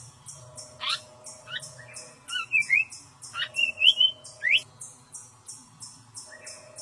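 Tali pocong birds giving a series of short, sharp chirps and quick rising whistled calls, loudest a little past the middle, over a steady rapid high-pitched pulsing of about three pulses a second.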